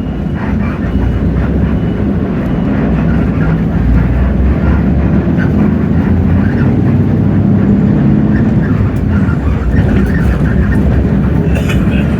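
Hino J08E-VN 7.7-litre inline-six diesel of a Hino RK8JRVA city bus running under way, heard from inside the bus with road and body rattle noise. It gets a little louder over the first few seconds, then holds steady.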